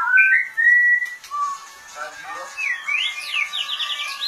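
White-rumped shama singing: clear whistled notes, then a quick run of about half a dozen rising notes near the end.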